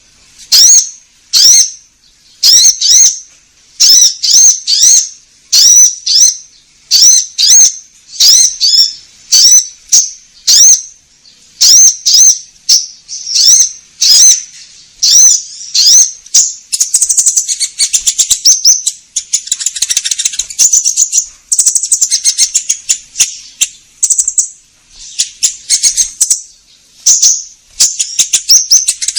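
A konin bird calling in an energetic lure-call recording. Short, high chirps come in quick clusters about every second, then turn into a denser, unbroken twittering song past the halfway point.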